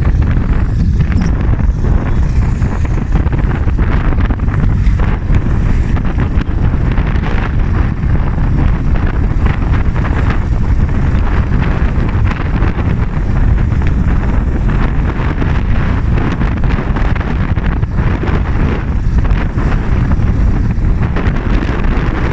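Loud, steady wind buffeting the microphone, a dense low rumble without any pauses.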